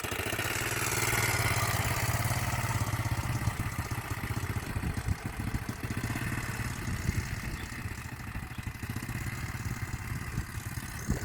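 1987 quad bike engine pulling away in low gear, swelling about a second in and then slowly fading as the quad moves off round the field.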